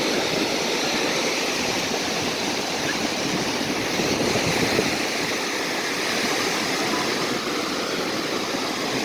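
Steady rushing of small waves washing at the seashore, an even hiss without clear swells.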